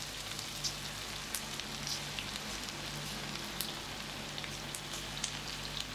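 Chicken pieces coated in cornflour batter deep-frying in a pan of hot oil: a steady sizzle with scattered crackles and pops.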